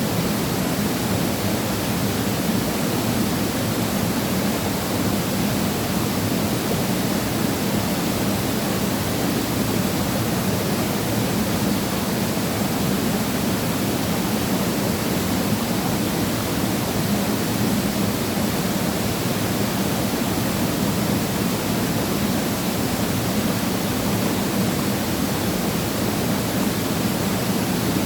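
Waterfall pouring steadily into a pool: a constant, unbroken rush of falling water.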